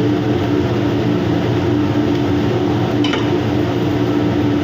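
Steady mechanical hum with a constant low drone, like machinery or a ventilation fan running, with a light clink about three seconds in.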